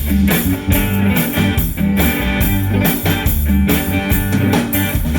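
Live band playing an upbeat instrumental passage on guitar, bass and drum kit, with steady drum hits and no singing.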